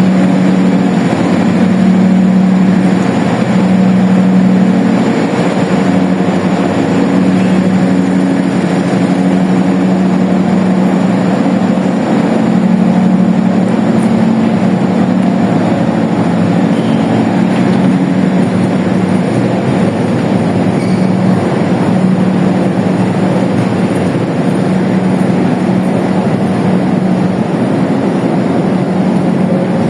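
Diesel-hauled passenger train running close by: a loud, steady engine hum with rail and running noise throughout.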